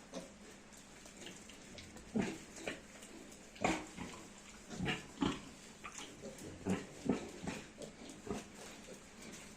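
Piglet grunting, a run of short, irregular grunts, one or two a second.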